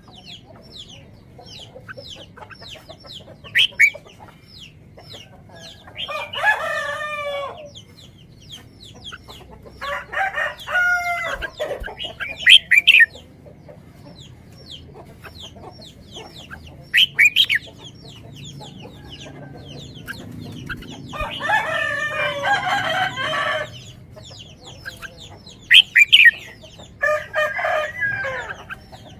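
Chickens calling: four drawn-out calls a few seconds apart, with many short, high chirps in between.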